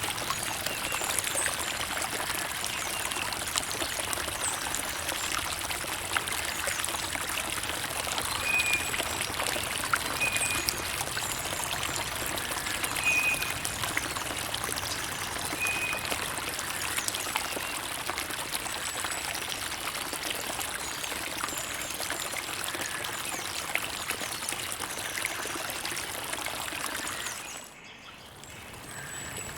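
Creek water running and trickling over stones, a steady splashing babble with a few short high chirps in the first half. The water sound dips briefly about two seconds before the end.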